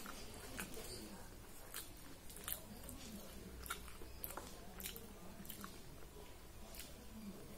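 A person chewing soft puri with ragda and potato curry, with irregular wet mouth clicks and smacks scattered throughout.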